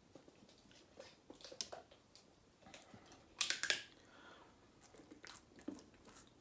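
Close-up eating sounds: chewing with scattered soft mouth clicks, and a louder sharp crackle about three and a half seconds in.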